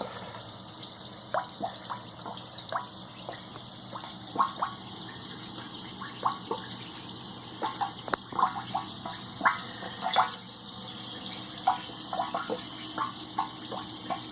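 Coca-Cola dripping and plopping into a tub where engine parts are soaking: irregular small liquid drops over a steady hiss.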